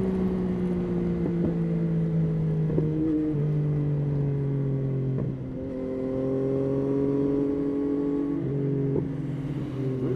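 Yamaha Tracer 9's 890 cc inline-three engine running at part throttle as the bike rides. Its note sinks gradually in pitch and steps down several times with brief breaks, as when the rider eases off and shifts through the gears.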